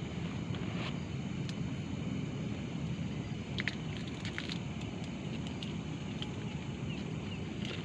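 Steady low rumble of wind buffeting the microphone on an open mountaintop, with scattered light clicks and ticks, a small cluster of them about halfway through.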